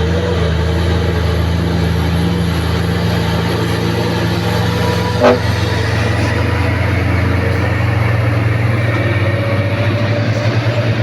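Old truck engine running steadily with a low drone, with one brief toot-like sound about five seconds in.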